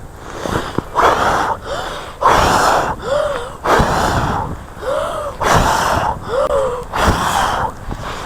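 A person huffing loud, forceful breaths, about one a second, some ending in a short voiced note, while warming his cold hands at a campfire.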